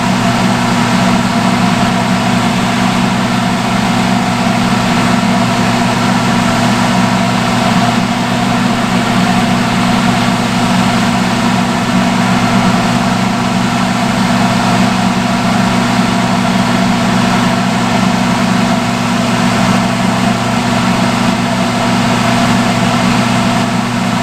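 Seated salon hood hair dryer running: a steady, loud fan-and-motor drone with a constant hum that does not change.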